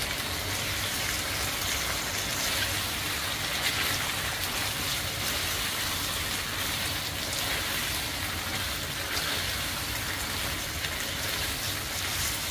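Chicken pieces and sliced sausages frying in a nonstick wok over a gas flame while being stirred with a spatula: a steady sizzling hiss.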